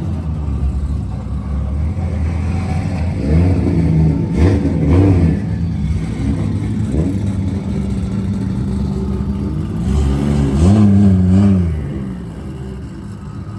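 Car engines running as modified show cars are driven slowly into place, with the engine note swelling and rising in pitch twice, about four seconds in and again about ten seconds in.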